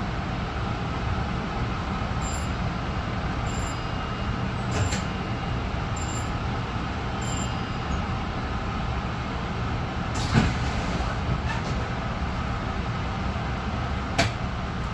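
A moving Long Island Rail Road M3 electric multiple-unit car heard from inside: a steady running rumble. A faint tick repeats about every second and a quarter for several seconds, and there are two sharp knocks, one about ten seconds in and one near the end.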